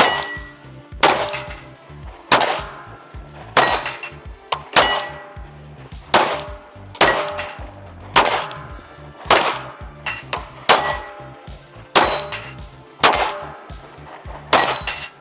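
Pistol shots fired at a steady pace, about one a second, about thirteen in all. Each is followed by the ringing clang of a struck steel target plate.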